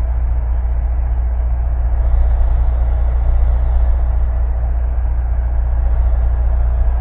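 Cessna 172 Skyhawk's piston engine and propeller droning steadily in the cockpit, a constant low hum with no change in pitch.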